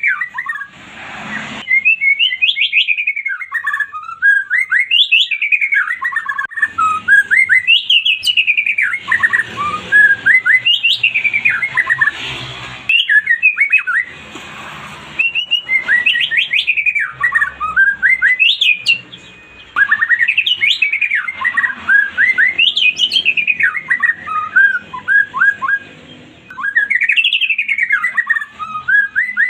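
White-rumped shama (murai batu) singing: whistled phrases repeated every two to three seconds, each climbing quickly and then falling away in a run of short, rapid notes.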